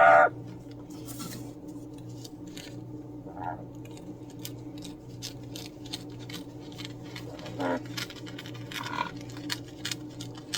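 Many small scattered clicks and taps from handling at a tabletop, over a steady low electrical hum, with a few brief soft chirps from a parrot.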